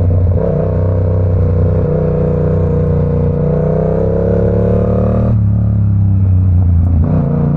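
Yamaha R7's parallel-twin engine pulling in gear, its pitch climbing slowly, then the throttle rolls off about five seconds in.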